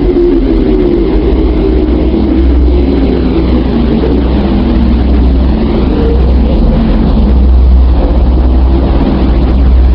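Deep, steady rumbling space drone with a wavering hum and a faint sweeping shimmer above it: a sonification of spacecraft data, presented as the sound of a planet.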